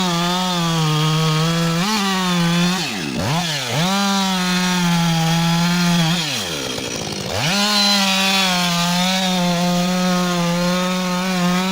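Two-stroke chainsaw running at high revs as it cuts timber, its engine note dropping away and climbing back a few times when the throttle eases off.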